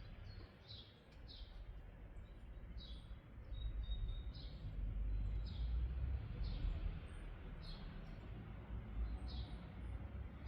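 A small bird chirping over and over in short, falling, high chirps at an uneven pace, over a low rumble that gets louder a few seconds in.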